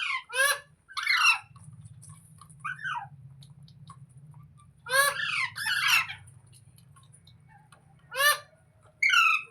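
Green ringneck parrot giving short, harsh screeching calls in clusters, with pauses between them, over a faint steady low hum.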